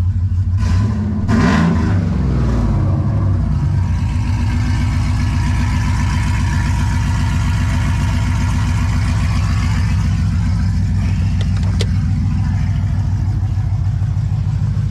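Pickup truck engine running cold through long-tube headers straight out open dumps with no muffler: one quick blip of the throttle about a second in, then back to a steady idle.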